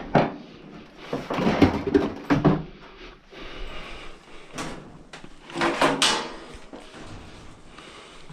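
Knocks and scraping from the dryer's cabinet panels being handled and slid during disassembly, in two clusters about a second in and again around five seconds in.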